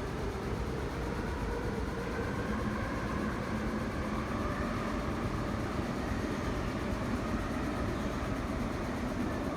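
MTR SP1900 electric train running, a steady rumble of wheels on rail with a faint whine from its traction motors that rises slightly in pitch.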